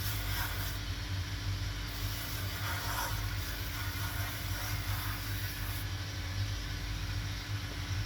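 A workshop machine's electric motor running steadily with a constant low hum.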